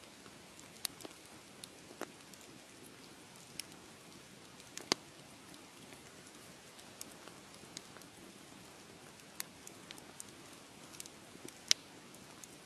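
Wood fire crackling: a soft steady hiss with irregular sharp pops and snaps, two louder pops about five seconds in and near the end.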